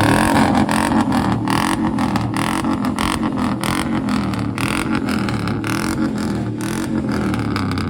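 Pickup truck engine revved hard and held at high revs, its pitch wavering slightly, with crackling over it, as the driver does a burnout.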